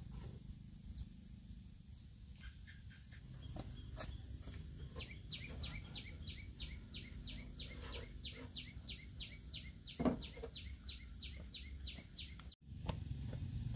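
Countryside ambience: an insect keeps up a steady high drone, and about five seconds in a bird starts a fast run of short, falling chirps, about three a second, which stops near the end.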